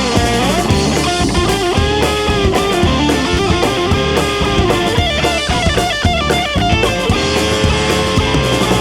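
Rock band playing an instrumental passage: electric guitar lines over bass and a drum kit, with no singing.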